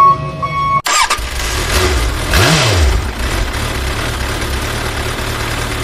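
Repeated electronic beeping, like a reversing alarm, cut off abruptly about a second in by a truck engine sound effect that starts and runs steadily, with one quick rise and fall in pitch near the middle.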